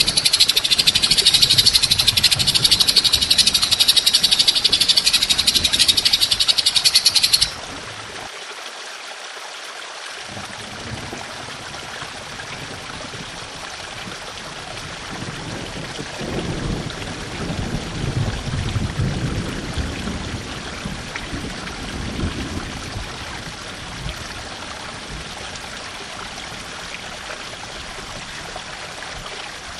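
A loud, high, rapid rattling trill from a calling animal, used as 'masteran' training material for songbirds. It cuts off abruptly about seven seconds in, leaving a steady hiss, like running water, with some low rumbling.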